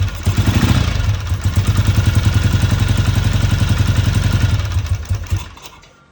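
1966 BSA A65L's 650 cc parallel-twin engine running roughly, then dying about five seconds in. It is running on one cylinder, with one spark plug lead not hooked up.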